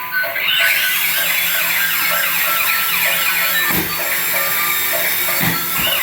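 Electronic siren of a battery toy police car wailing rapidly up and down over a repeating electronic beeping pattern. Two low thumps come about four and five and a half seconds in.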